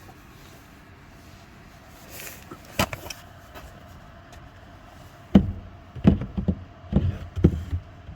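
Hand work on a car's parts: one sharp knock, then a quick run of five or six heavy clunks and thumps as parts are handled and pressed into place, over a faint steady hum.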